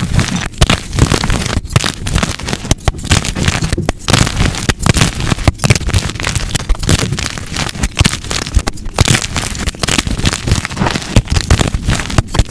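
Dyed gym chalk blocks being crushed and crumbled by hand, a dense run of snapping and crunching made of many sharp cracks close together.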